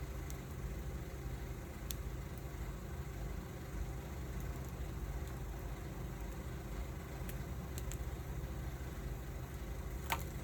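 Wood fire burning, with a few sharp pops and crackles spread over several seconds, the loudest near the end, over a steady low rumble.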